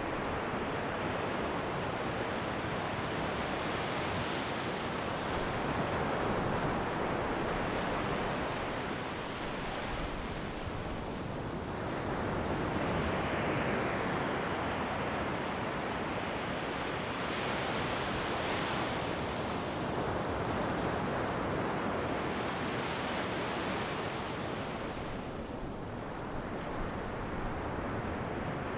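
Ocean waves washing onto a shore in a steady surge, swelling and easing every five or six seconds.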